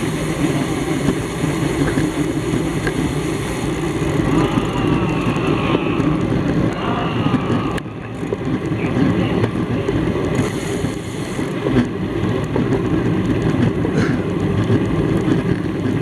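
Road bike riding at race speed: a steady rush of wind and tyre noise on the bike's camera microphone.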